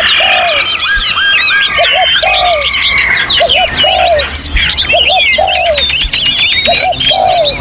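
Many songbirds singing over one another in a dense mix of whistled phrases, rapid trills and chirps. Under them a low arched double note repeats about every second and a quarter.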